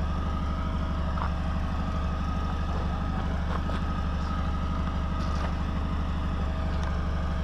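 Jeep engine idling steadily, a low even hum.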